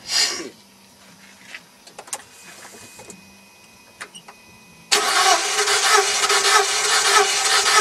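Starter motor cranking the Mercedes W210's engine without letting it start, for a compression test with a gauge in one cylinder; the steady cranking cuts in suddenly about five seconds in. A brief noise comes just at the start.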